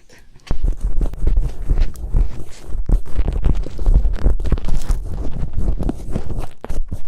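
Earpick scraping and rubbing inside the ear of a binaural ASMR microphone. It starts suddenly about half a second in and goes on as loud, close, irregular scratching over a deep rumble.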